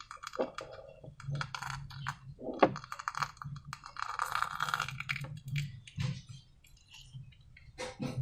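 Irregular clicks, light clinks and short crackling rustles of hands handling slime-making materials and containers, busiest in the first few seconds and sparser near the end.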